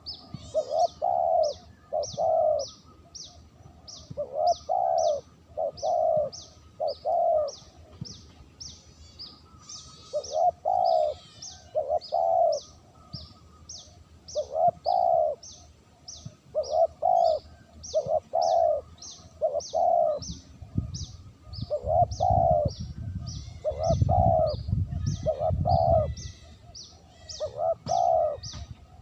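Spotted dove cooing over and over in short phrases of two or three notes. Under it runs a steady series of short, high chirps from a small bird, about two a second. A low rumble comes in during the second half.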